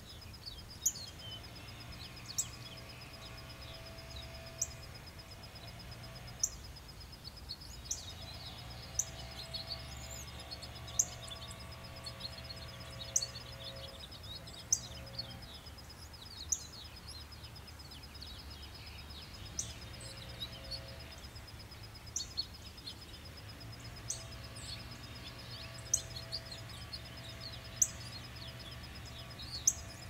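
Woodland bird giving short, sharp high chirps, one every second or two, over a steady high-pitched trill and a faint low hum.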